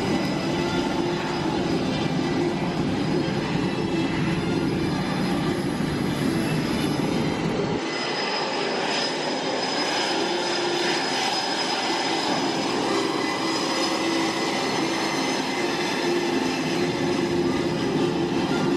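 Aircraft turbine engines running with a steady whine as planes taxi by. A low rumble under it drops out abruptly about eight seconds in.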